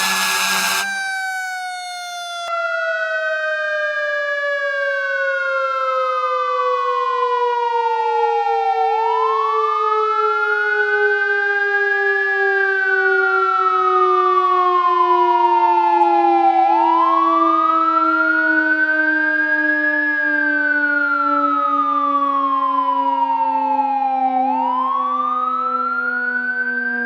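Fire truck sirens: a wail siren rising and falling slowly, one cycle about every eight seconds, over a second siren whose pitch sinks steadily the whole time, as a mechanical siren does when winding down. A short blaring burst in the first second.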